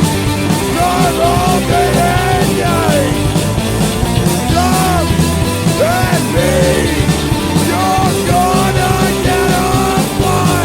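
Punk rock band recording playing with no vocals: full band of guitars, bass and drums, with a melodic lead line of notes that bend up and fall back.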